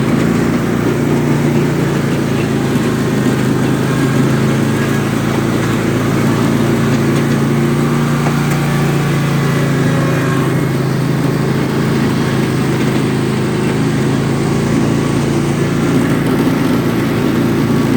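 Husqvarna riding lawn mower's engine running steadily at an even speed.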